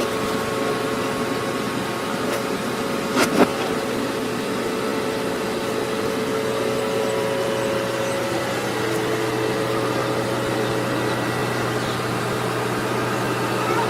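Engine of a heavy earthmoving machine running steadily with a constant drone and whine, with two short knocks a little over three seconds in.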